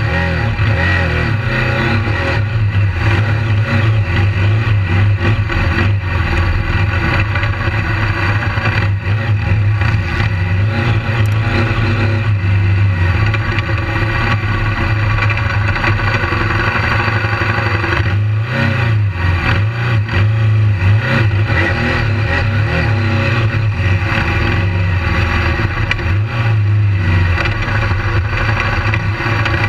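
BMW GS adventure motorcycle's engine running as the bike rides over a dirt track. Its note rises and falls with the throttle.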